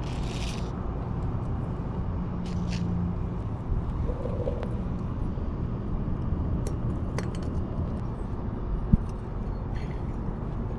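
A steady low rumble under a few light clicks and taps of small metal engine parts being handled during pit bike cylinder head assembly, with one sharp knock about nine seconds in.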